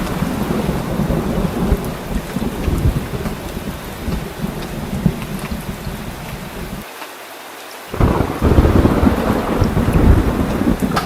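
Heavy rain with low rolling thunder. About two-thirds of the way in, the low rumble drops out for about a second, then comes back suddenly louder with a fresh roll of thunder and heavier rain.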